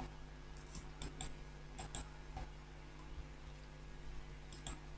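Faint, scattered clicks of a computer mouse and keyboard, a few in quick pairs, over a steady low electrical hum.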